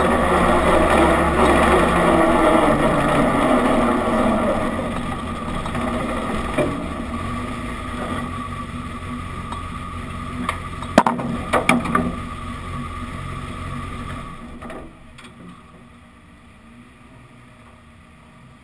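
Stock rod race car's engine heard onboard, running at low revs and fading as the car rolls slowly to a stop off the track. There are a few sharp knocks around eleven to twelve seconds in, and the engine falls silent about fourteen seconds in.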